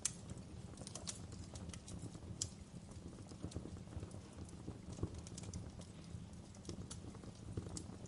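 Log fire in a fireplace crackling and popping: irregular sharp snaps over a steady low rumble of burning. The loudest pops come right at the start, about two and a half seconds in, and about five seconds in.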